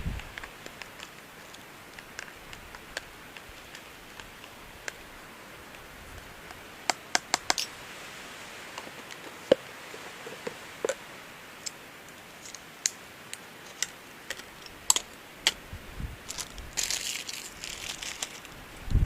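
Irregular sharp clicks and taps, a few close together about a third of the way in, then a short crinkling rustle near the end.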